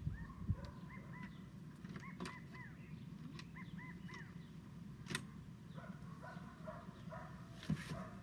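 A bird chirping in short, repeated arched notes, with a few sharp clicks in between.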